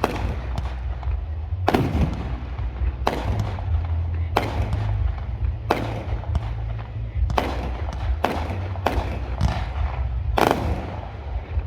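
Aerial fireworks shells bursting overhead: about a dozen sharp bangs, irregularly spaced roughly a second apart, each trailing off in a brief echo, over a steady low rumble. The loudest burst comes near the end.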